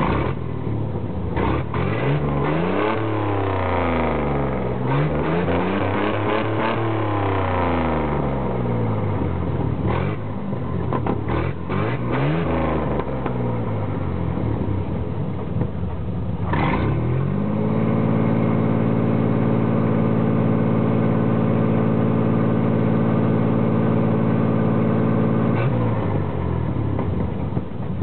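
1991 GMC Sonoma's 4.3-litre V6 revved up and down several times, then held at a steady high speed for about eight seconds before dropping back near the end. The sound comes through a rusted-out factory exhaust, with the engine running on bad spark plugs, wires, cap and rotor.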